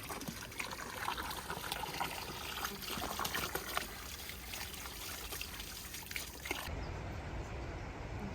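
Water trickling and splashing, with many small clicks through it. About six and a half seconds in it cuts off abruptly, giving way to a low steady rumble.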